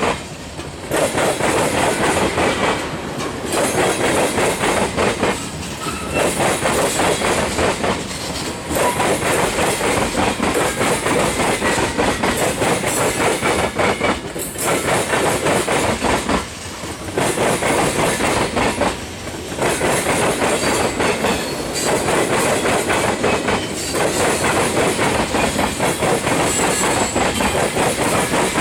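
Freight cars of a manifest train rolling past, wheels clattering over the rail joints. The clatter is steady and loud, with short dips about every two to three seconds.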